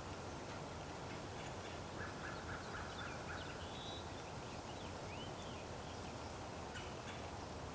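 Faint bird calls over a steady outdoor background hiss: a short, rapid rattling series about two seconds in, then several brief chirps.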